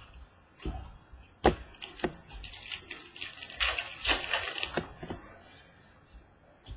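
Handling of trading cards and their wrapper: a few sharp taps and clicks, then a couple of seconds of crinkling, rustling handling noise that fades out about five seconds in.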